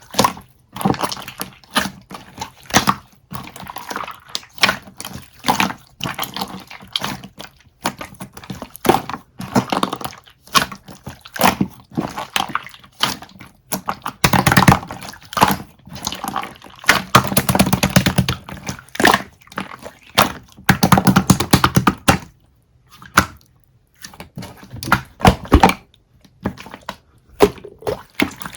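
Irregular, closely spaced clicks, knocks and crunching handling noises, with a brief lull about three-quarters of the way through.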